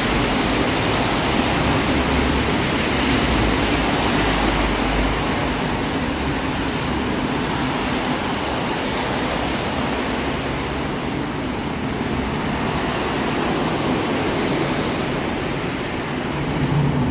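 Steady rushing hiss of heavy rain pouring down on a flooded street, with floodwater sitting over a storm drain. A low rumble runs under it for the first five seconds or so.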